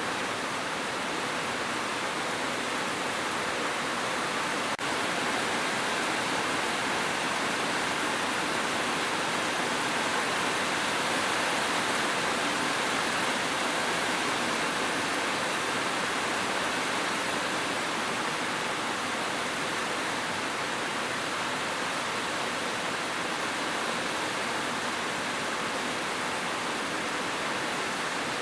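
Steady, even rushing of water with no breaks or separate drops.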